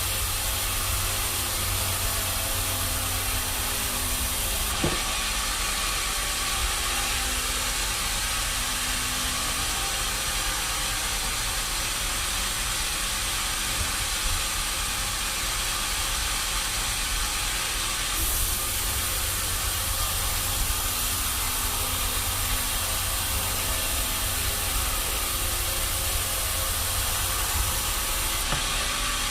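Sawmill machinery running steadily, a continuous hiss over a low rumble, with abrupt changes in tone three times.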